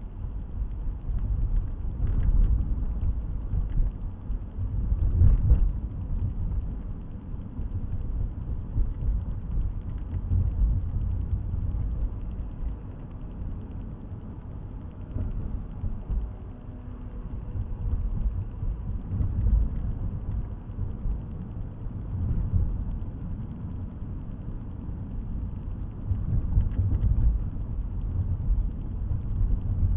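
Low, uneven rumble of a car being driven, road and engine noise heard from inside the cabin through a dash camera's microphone, with two brief knocks in the first six seconds.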